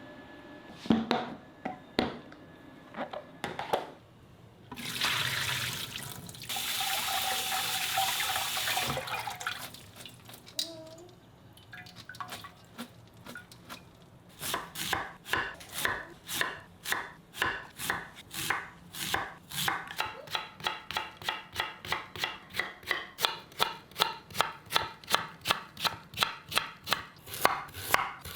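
A few knocks, then a kitchen tap runs for about four seconds. From about halfway, a knife chops steadily on a cutting board, the strokes speeding up near the end.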